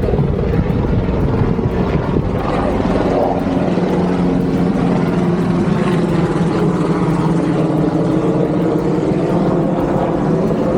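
Steady engine drone of a motor vehicle in street traffic, a low hum with a haze of road noise around it.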